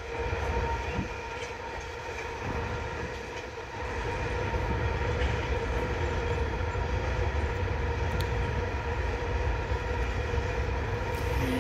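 A long train passing: a continuous low rumble with a few steady tones over it, growing louder about four seconds in.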